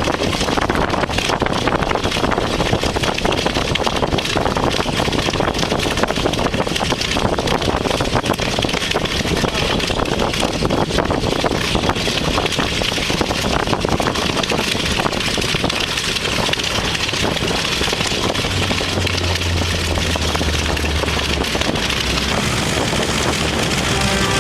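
Piston aircraft engine running steadily, with a dense rushing noise over it; a low steady hum comes in for a few seconds near the end.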